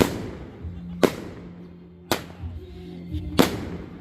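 Fireworks bursting: four loud bangs about a second apart, each trailing off in an echoing rumble.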